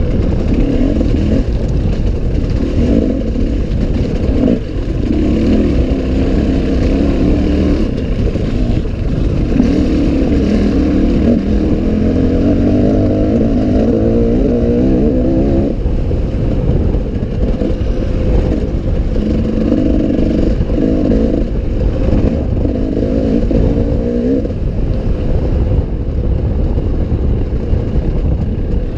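Enduro motorcycle engine running under way and revving up and down, its pitch shifting as the throttle opens and closes.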